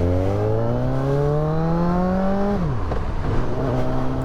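Motorcycle engine revving up steadily for about two and a half seconds. The revs then fall away sharply and settle into a steady lower drone.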